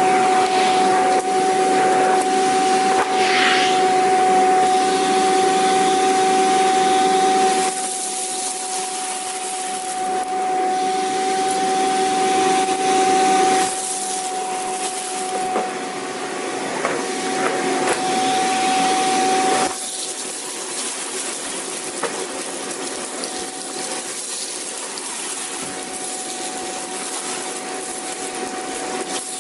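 Vacuum cleaner running: a steady motor whine over a rushing hiss of air. The level drops in steps about a quarter, half and two-thirds of the way through, and after the last drop the whine is weaker.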